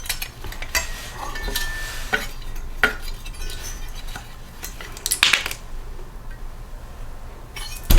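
Light metallic clinks and taps of small engine parts and hand tools being handled while the governor spring is unhooked, with a brief ringing note about a second and a half in and a sharper clink about five seconds in.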